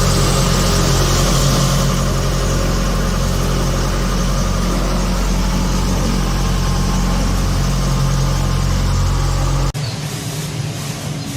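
A steady engine drone with low held tones under a hiss of wind and water. It cuts off abruptly near the end to a quieter, different mix of sounds.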